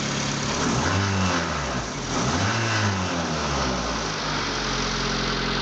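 Honda D16 1.6-litre four-cylinder engine revved twice from idle, rising and falling in pitch each time, then settling back to a steady idle.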